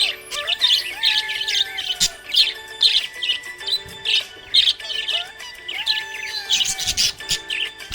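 Budgerigars chirping rapidly and continuously in quick, high chattering bursts, with music playing underneath.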